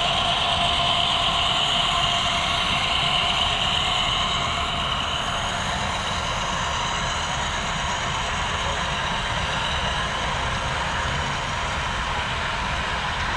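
HO scale model train running on the layout: a steady mechanical running hum with a faint whine, easing slightly about four seconds in.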